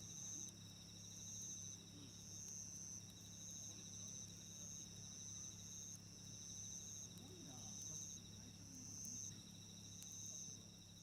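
Insects singing: a high chirp repeating about once a second over a continuous trill that breaks off briefly now and then.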